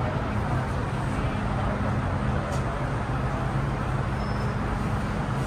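MTR Tseung Kwan O Line M-Train running: a steady rumble with a low, even hum.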